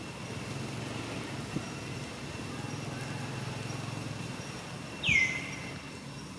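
A single high-pitched animal call about five seconds in, sweeping quickly down in pitch and holding briefly at the bottom, over a steady low hum.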